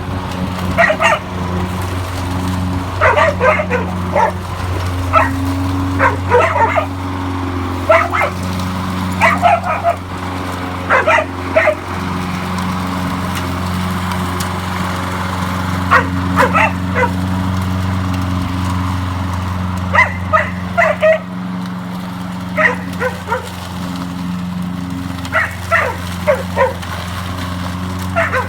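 A dog barking in quick bursts of two to four barks every few seconds, over the steady hum of a running lawnmower engine.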